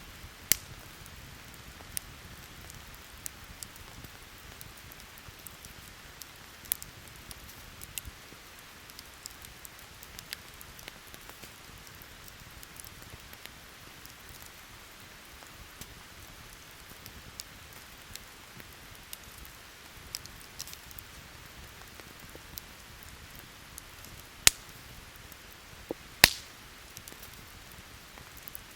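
Steady rain falling, with a wood campfire crackling through it: scattered sharp pops of burning wood, the loudest about half a second in and twice near the end.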